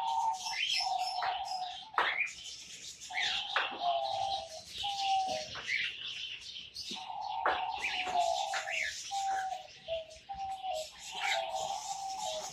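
Pet cage birds chirping over and over in short rising calls, with a steady lower warbling tone that steps down in pitch running beneath them.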